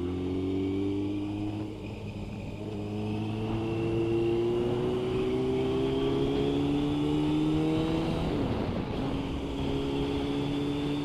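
Motorcycle engine pulling under throttle, its pitch climbing slowly for about eight seconds, then dropping sharply at an upshift and pulling on in the next gear.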